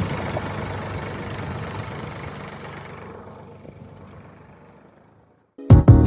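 A motor vehicle's engine running steadily, fading away over about five seconds to silence; music with sharp rhythmic hits starts abruptly near the end.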